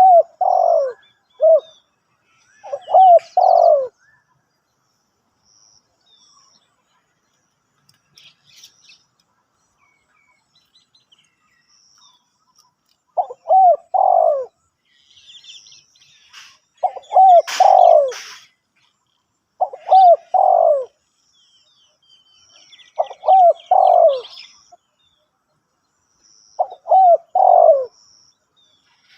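Spotted dove cooing: short phrases of two or three low coos, repeated every few seconds with longer gaps between some. Faint high chirps of small birds sound between the phrases, and there is a brief sharp knock about two-thirds of the way through.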